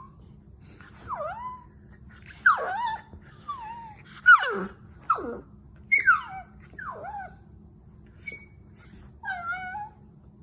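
A dog whining in a series of short cries that swoop up and down in pitch, with brief gaps between them.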